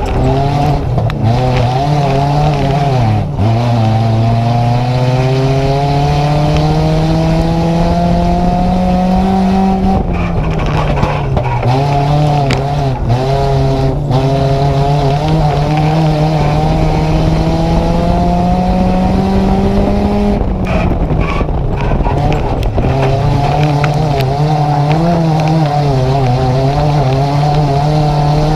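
In-car sound of a Nissan Micra race car's engine under load, its pitch climbing steadily for several seconds and then dropping sharply as the driver lifts, three times over.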